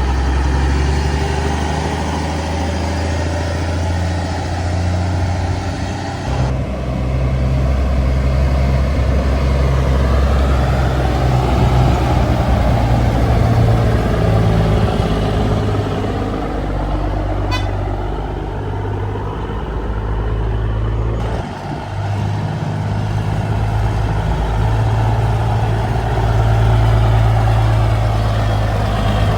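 Vintage truck engines running deep and steady as the trucks drive by, the pitch rising and falling in the middle stretch. The sound changes abruptly about six and twenty-one seconds in, as one truck gives way to the next.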